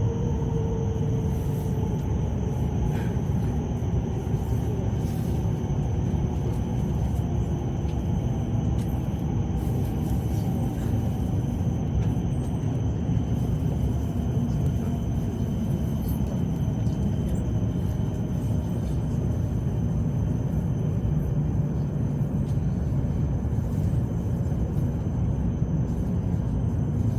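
Cabin running noise of an E7 series Shinkansen: a steady low rumble with a faint whine that slowly falls in pitch, and a thin steady high tone above it.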